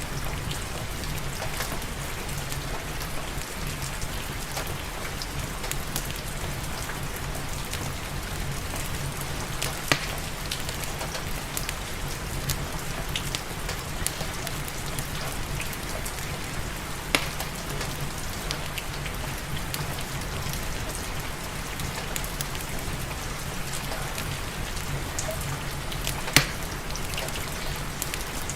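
Steady rain hissing over a low rumble, mixed with the scattered sharp crackles and pops of a wood fire burning in a fireplace. Three of the pops are louder than the rest, spread through the stretch.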